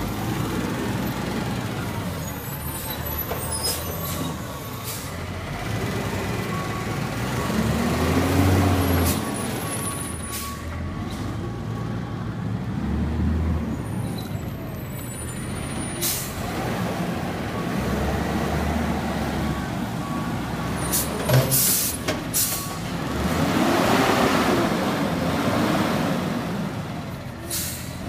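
Garbage truck's diesel engine running, revving up and falling back twice as it works, with a few brief sharp hisses of air from its brakes.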